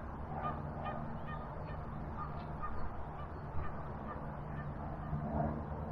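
Geese honking, a run of short repeated calls, several a second at first and then more spaced out, over a steady low hum.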